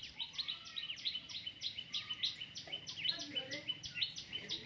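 Baby parrots chirping in a rapid, continuous run of short, high, downward-sliding chirps, about six a second.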